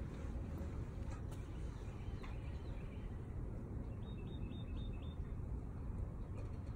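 Birds chirping faintly over a steady low background rumble, with a short run of about four repeated chirps about four seconds in.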